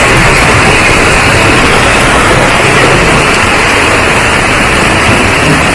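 Heavy tropical rain pouring down steadily, a loud even hiss of rain on the ground and roofs.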